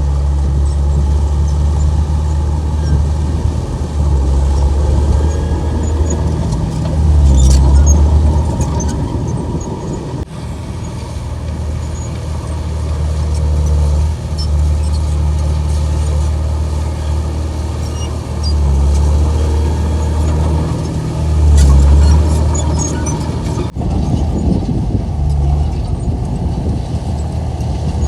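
Komatsu bulldozer's diesel engine working under changing load, growing louder twice as it pushes harder, with faint high squeaks and clicks.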